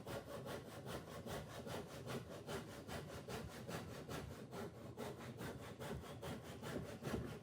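Tenon saw cutting through a piece of wood in quick, even back-and-forth strokes.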